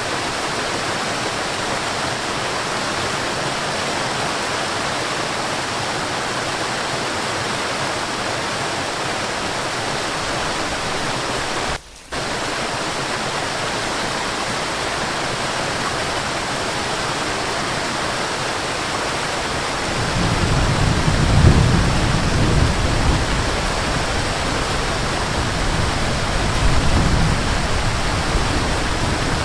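Waterfall rushing steadily. It drops out briefly just under halfway through, and about two-thirds through a deep low rumble joins it.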